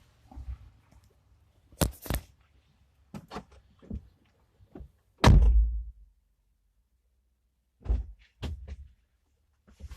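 Scattered knocks and clicks inside a car, the loudest a heavy thunk about five seconds in, with near silence between them.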